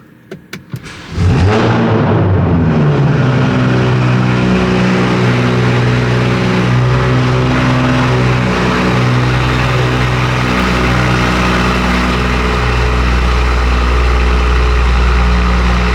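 Straight-piped 2019 BMW 540i with its B58 turbocharged inline-six starting up: a few starter clicks, then the engine catches about a second in with a loud flare whose pitch falls over a second or two, and settles into a steady, loud idle. It is running inside a garage, which makes it sound louder.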